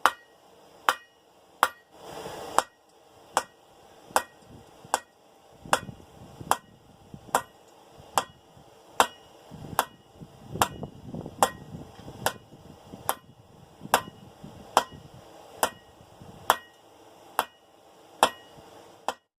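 Blacksmith's hammer striking hot 1/2-inch round steel on an anvil, forming a hook or eye on the end of the bar. The blows come steadily, a little more than one a second, each with a short metallic ring, with a brief break about two seconds in.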